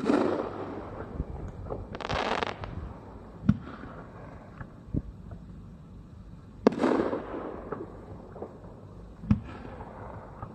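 Aerial fireworks bursting: two loud booms, one at the start and one about seven seconds in, each followed by a fading rumble and crackle. Between them come a brief crackling hiss about two seconds in and several sharper single bangs.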